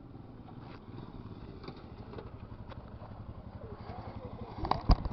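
A motorcycle engine running with an even low beat that grows louder over the first four seconds, then two sharp loud knocks close together near the end.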